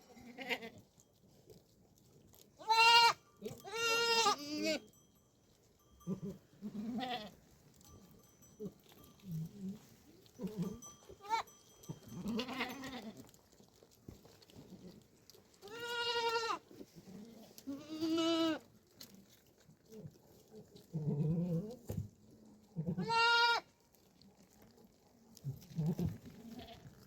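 Goats bleating, about ten separate calls of under a second each with pauses between them, some of them wavering.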